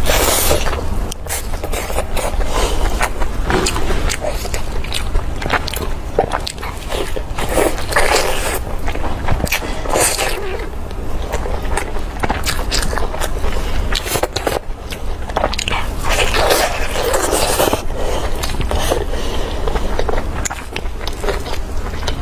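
Close-miked eating: chewing and biting food, with many irregular short clicks and scrapes over a steady low hum.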